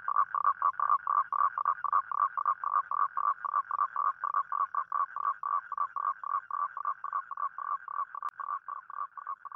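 A toad calling: a long, even trill of short croaking notes, about four or five a second, slowly getting fainter near the end.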